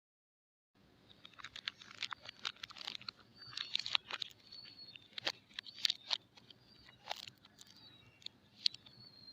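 Soap packaging being unwrapped by hand: crinkling, crackling plastic with irregular sharp clicks and short squeaks. It begins about a second in.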